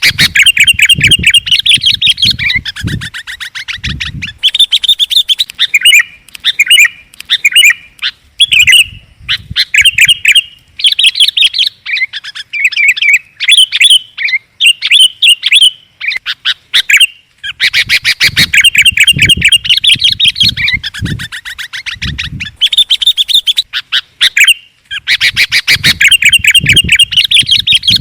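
Sooty-headed and yellow-vented bulbuls giving loud, agitated chattering calls: long runs of rapid stuttering notes broken by short pauses, with dull low thumps under some runs. This is an excited, noisy bulbul chorus of the kind played as a lure to draw in other birds.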